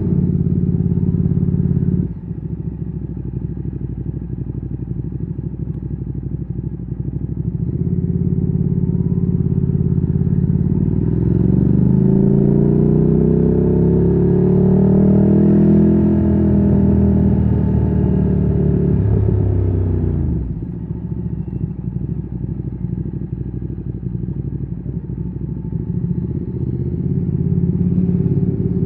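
Ducati Streetfighter 848's L-twin engine through a Termignoni exhaust, heard from the rider's seat. The throttle shuts about two seconds in and the engine runs low and uneven. It then climbs steadily in pitch under acceleration for several seconds, falls away as the throttle closes about twenty seconds in, and picks up again near the end.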